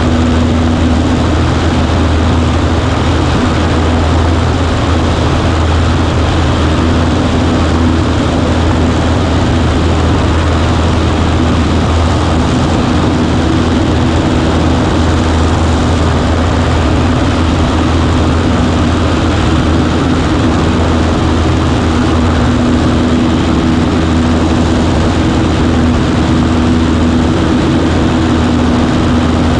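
Cessna 140A's piston engine and propeller running at a steady, even speed, heard as a loud continuous drone.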